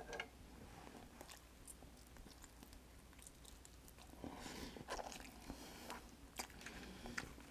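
Faint chewing and mouth sounds of a person eating, with scattered soft clicks, a little louder from about four seconds in.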